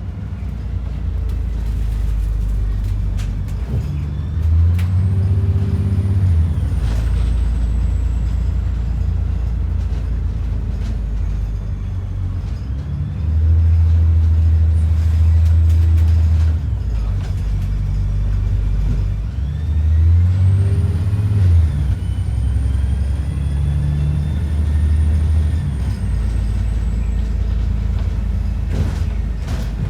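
Alexander Dennis Enviro 400 double-decker bus driving, its diesel engine droning low and swelling louder several times as it pulls. A faint high whistle rises and fades twice.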